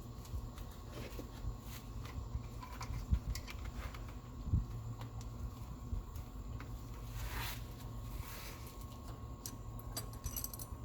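Scattered light clicks, knocks and rustles of hand work on engine-bay parts, such as hoses and clips being fitted, with two sharper knocks about three and four and a half seconds in, over a steady low hum.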